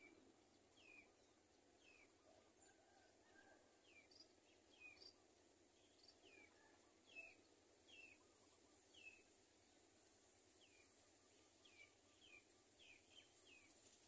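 Faint, short downward-sliding bird chirps repeating about once a second, sometimes in quick pairs, over a low steady outdoor hiss.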